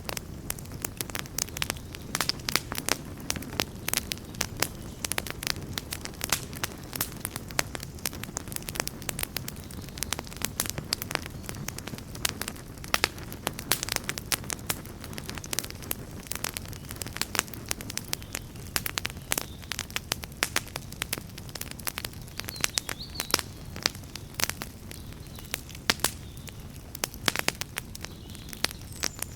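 Campfire burning with dense, irregular crackles and pops over a steady low rumble of flames.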